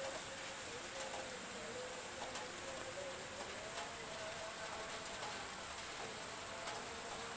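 Light rain hissing steadily, with a few scattered drop ticks, over a faint wavering hum.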